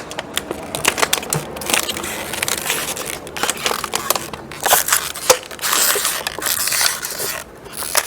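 Plastic being handled and squeezed, crackling and crinkling with many sharp clicks, dipping briefly near the end.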